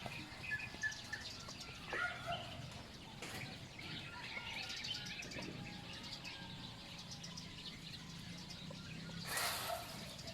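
Birds chirping and twittering in short scattered calls over a steady low background, with a brief burst of noise about nine seconds in.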